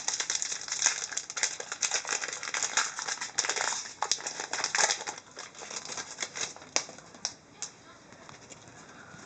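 Upper Deck hockey trading cards being handled and slid against one another: a run of quick papery rustles and flicks that thins out about eight seconds in.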